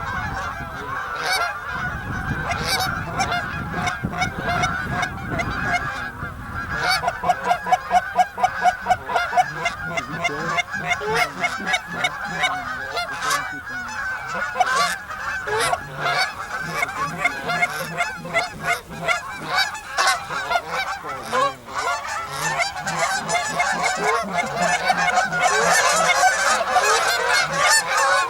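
Geese honking: a dense chorus of many overlapping honks that goes on without a break and gets a little louder near the end, with a quick run of rapid honks a few seconds in.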